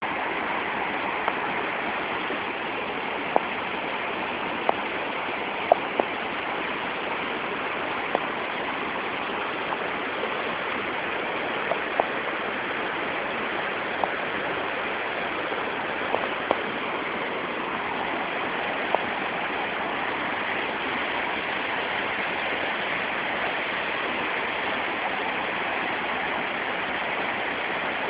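Waterfall running steadily, a continuous even rush of water, with brief sharp ticks scattered through it.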